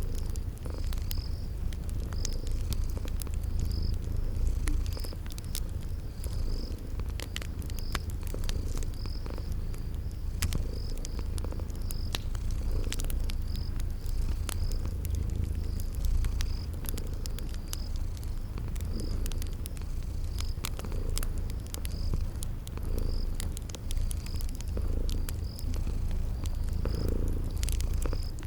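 A cat purring steadily, the low purr swelling about every two seconds with its breaths. Also heard are scattered pops and crackles from a wood fire and crickets chirping about twice a second.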